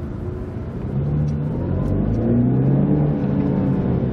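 BMW 120i (E87) 2.0-litre four-cylinder engine pulling under acceleration, heard from inside the cabin. About a second in, the engine note grows louder and rises in pitch.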